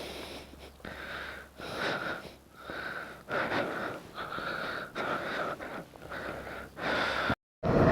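Breathing close to the microphone: about one hissing breath a second with a slight whistle. The sound breaks off in a brief dropout near the end.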